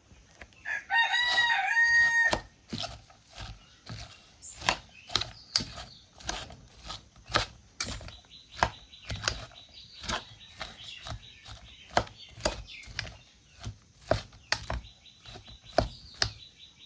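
A rooster crows once near the start, a single long call of about a second and a half. Throughout, a kitchen utensil knocks sharply and steadily, about two or three knocks a second, as ingredients are mixed.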